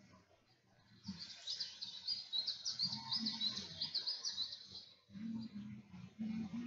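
A small songbird singing a fast run of varied high chirps and twitters, starting about a second in and lasting about four seconds.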